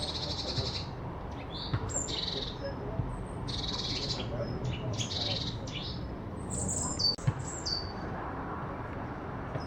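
Small songbirds giving repeated harsh, rasping scolding alarm calls, mobbing a jay that is killing a small bird. Each call is a high, noisy rattle lasting about half a second to a second, with a few short down-slurred notes near the end. Two short knocks about three quarters of the way in are the loudest sounds.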